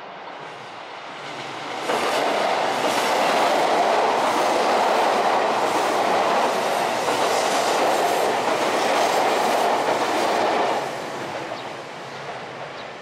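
Electric commuter train crossing a low steel girder railway bridge directly overhead: its wheels clatter loudly over the bridge, starting abruptly about two seconds in, then the noise drops away near eleven seconds as the train moves off along the embankment.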